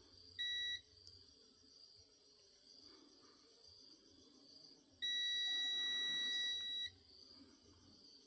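A short, high electronic beep, then about four seconds later a long, steady beep lasting about two seconds. Both sound over a constant chirring of insects.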